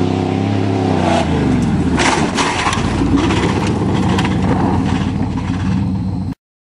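1988 Chevy pickup's engine revving high under full throttle, dropping in pitch as the throttle comes off about a second in. This is followed by rough rumbling with sharp knocks and clatter from the truck as it lands the jump and rolls on. The sound cuts off suddenly near the end.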